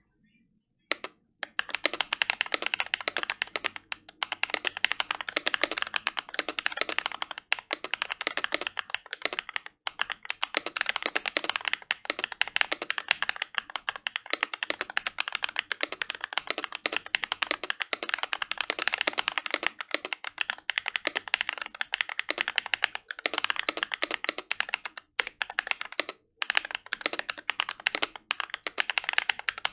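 Continuous typing on a Glorious GMMK Pro mechanical keyboard with an aluminium plate and no foam, fitted with lubed, paper-modded Feker Holy Panda tactile switches and PBT keycaps. Dense keystroke clacks begin about a second in, with a few brief pauses.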